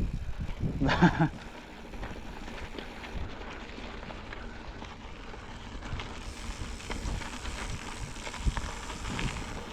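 Wind noise on the microphone and rough rolling noise of travelling over a rough track, with a short voice-like sound about a second in.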